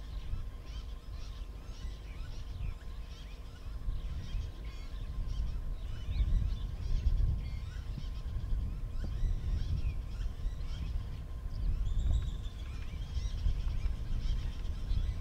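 Several birds chirping and calling in a busy, overlapping chorus over a low, uneven rumble.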